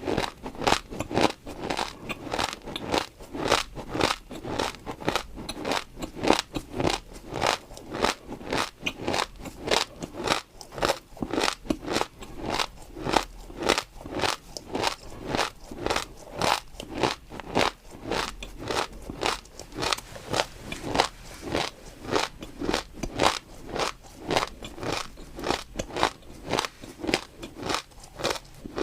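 Close-miked chewing of crunchy food: a steady run of crisp crunches, about two to three a second, without pause.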